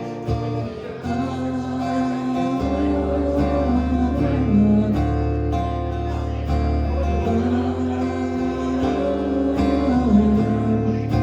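Acoustic guitar strumming the song's chords in an instrumental passage of the song.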